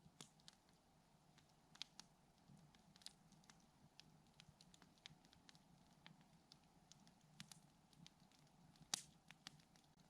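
Campfire crackling faintly: irregular sharp pops and snaps from burning wood, one louder snap near the end.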